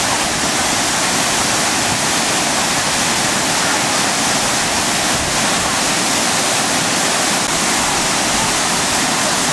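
Waterfall rushing: a loud, steady roar of falling water, most of it in the higher pitches.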